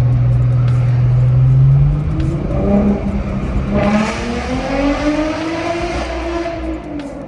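Ford Mustang 3.7L V6 exhaust, straight through an X-pipe with the mufflers deleted, droning steadily, then accelerating hard: the note rises in pitch from about two seconds in, turns louder and raspier about four seconds in, and drops back near the end as the throttle comes off.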